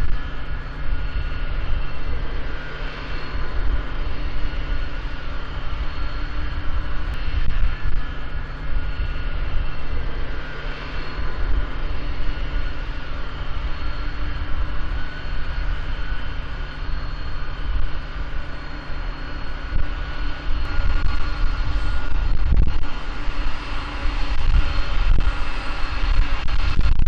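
Jet airliner engines running steadily: a continuous whine over a heavy low rumble, a little louder near the end.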